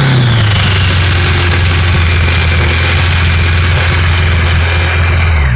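Motor trike's engine running, its pitch dropping slightly just after the start as the revs settle, then holding a steady idle.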